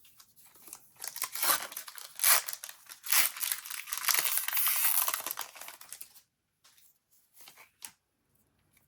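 Disney Lorcana booster pack wrapper being torn open and crinkled for about five seconds, followed by a few light clicks as the cards are handled.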